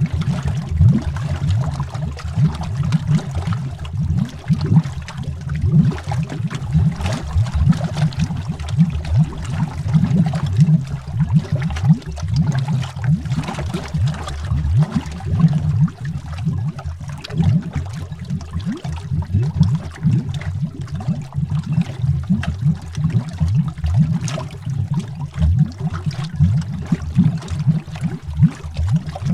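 Underwater bubbling: a dense, continuous stream of low bubbles rising one after another, with a fainter fizz and small ticks above.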